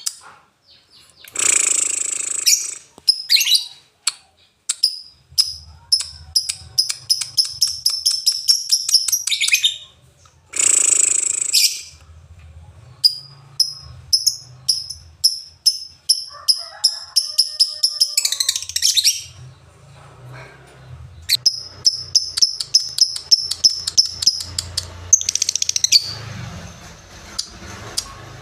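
Lovebird singing in long runs of rapid, evenly repeated high chirps, each run lasting several seconds, broken by two harsh, noisy calls about two and eleven seconds in.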